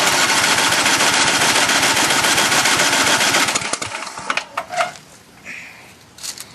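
John Deere 1026 snowblower's 10 hp engine cranked by its starter on a cold start after long storage: a rapid, even chugging for about three and a half seconds that then winds down without the engine catching.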